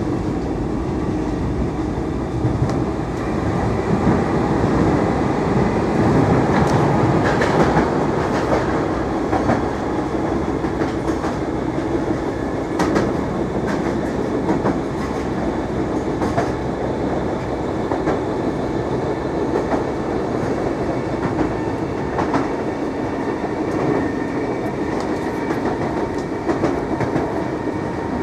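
Inside a Class 313 electric multiple unit under way: steady running rumble of wheels on rail, with irregular clicks as the wheels pass over rail joints.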